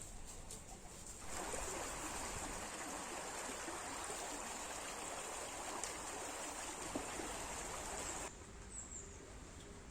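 Running water, a steady splashing rush that starts about a second in and cuts off abruptly about eight seconds in. Faint bird chirps near the end.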